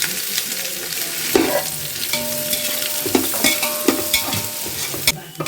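Sliced onions sizzling in hot ghee and oil in a pan while a spatula stirs them, with frequent scraping clicks against the pan. The sizzle cuts off sharply near the end.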